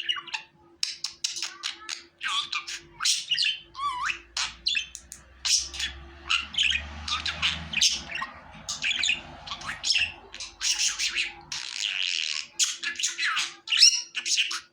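Budgerigars chattering: a dense, unbroken run of quick chirps, warbles and squawks.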